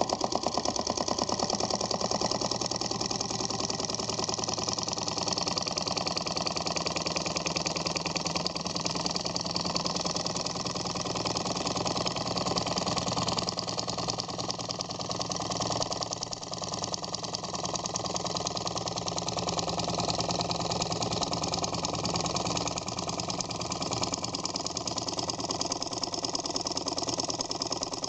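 Stirling engine running steadily with a fast, even mechanical clatter.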